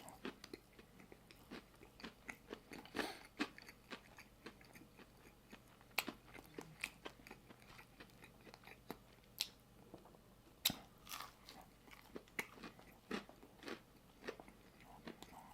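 Chewing and biting a crunchy barbecue chicken sandwich: faint, irregular crunches and wet mouth clicks, with a few sharper crunches about three, six and eleven seconds in.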